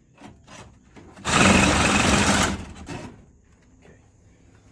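Reciprocating saw running in one loud burst of about a second and a half, cutting through old galvanized steel water pipe, after a few short taps of the trigger.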